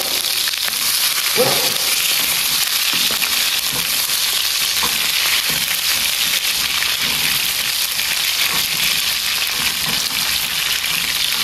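Food frying in hot oil in a pan, a loud, steady sizzling hiss.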